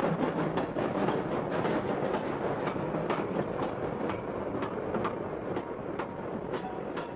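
Train running over jointed track: a steady rumble with the wheels clicking over the rail joints two or three times a second, gradually fading.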